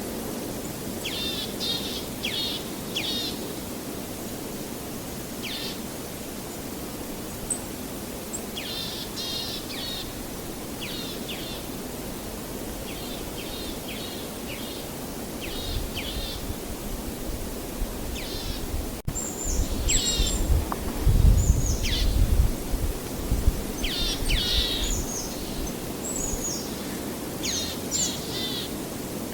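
Songbirds calling in short, repeated trilling phrases over a steady wash of background noise. A low rumble comes in during the second half and is loudest a little past the middle.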